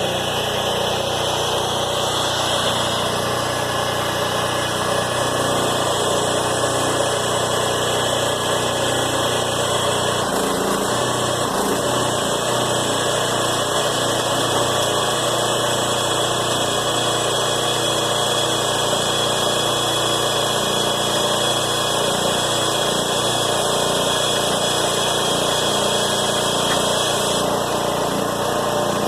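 Engine of the can baler running steadily; its low hum changes about ten seconds in.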